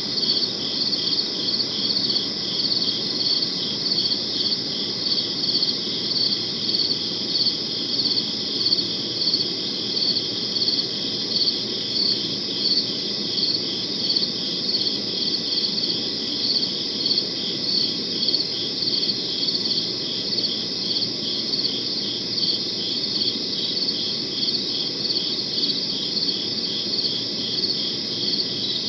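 Crickets chirping in a steady, even rhythm, about two chirps a second, over a soft low background hum of night ambience.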